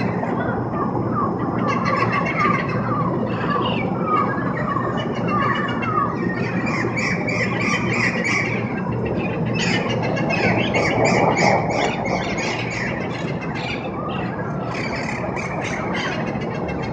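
A flock of feral parrots calling, a busy, continuous chatter of squawks and warbling notes over a steady low background hiss.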